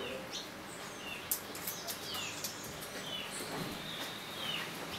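Birds peeping repeatedly: short, high chirps that slide downward, coming every half second or so, with a few sharp clicks among them.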